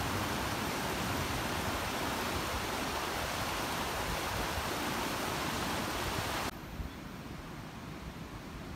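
Steady rushing outdoor noise, even and without any tone, that cuts off abruptly about six and a half seconds in to a quieter, duller hiss.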